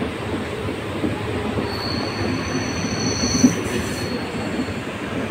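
Electric local train (EMU) running past on its track with a steady rumble. A high metallic squeal of two held tones sets in about two seconds in and fades out just before the end. There is one short sharp knock about three and a half seconds in.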